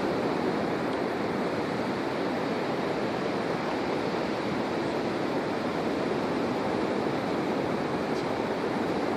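Steady wash of ocean surf, an even rushing noise with no distinct breaks.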